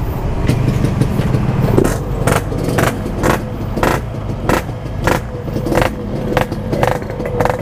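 Yamaha RX-King two-stroke motorcycle engine running steadily at low revs, with sharp clicks about twice a second over it.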